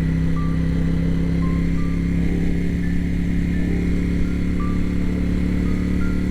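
Steady engine drone held at a constant pitch with no revving, under sparse background music notes.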